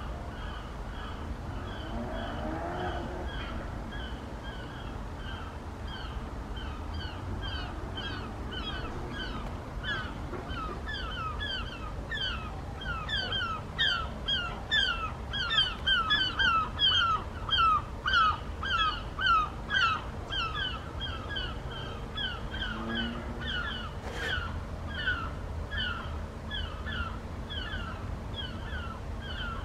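A bird calling over and over in short falling notes, a few a second, growing louder through the middle and easing off again, over a low outdoor rumble; one sharp click about three-quarters of the way through.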